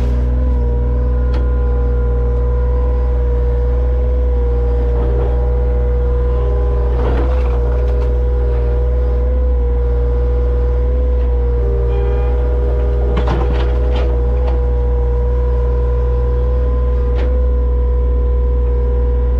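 Excavator's diesel engine running steadily: a loud low drone with a steady whine over it, and a few knocks and clanks through it.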